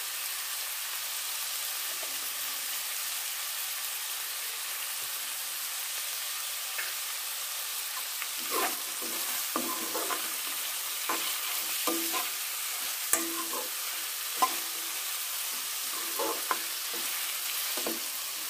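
Onions and ginger-garlic paste sizzling steadily in hot oil in a steel kadai. From about halfway through, a ladle scrapes and knocks against the pan as the mix is stirred.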